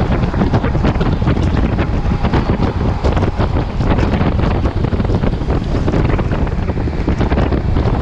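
Loud wind buffeting the microphone while riding a Yamaha T-Max 530 scooter through heavy rain, with frequent short crackles over the steady rush.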